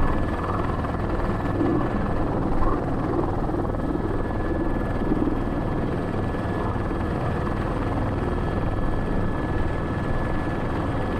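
Cockpit noise of an Airbus H125 (AS350 B3) helicopter hovering with a sling load: steady rotor and single-turboshaft engine noise with a constant high whine.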